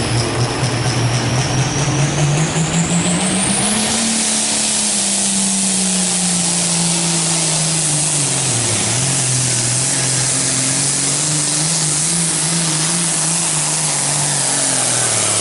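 Hot stock diesel pulling tractor running at full throttle on a pull. The engine note climbs over the first four seconds with a high whine rising alongside it, then slowly drops as it pulls under load, dipping briefly near nine seconds before holding steady.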